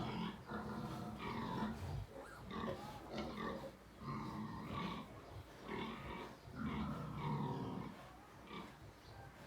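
A nursing sow grunting in repeated low bouts while her two-day-old piglets squeal at the teats as they suckle.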